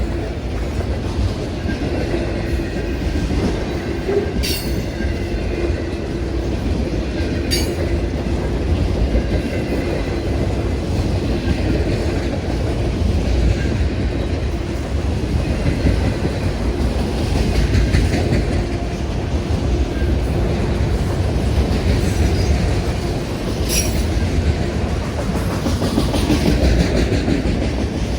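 Freight train cars rolling past: a steady rumble with wheels clacking over rail joints. Brief sharp wheel squeals break through three times.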